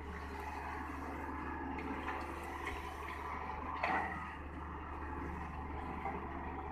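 Heavy diesel earthmoving machinery running steadily with a deep engine drone. A short louder burst comes about four seconds in.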